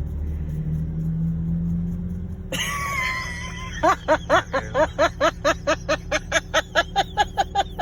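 Car cabin rumble from the engine and road, then, about four seconds in, a fast, regular run of pitched vocal-like pulses, about five a second, that is louder than the rumble.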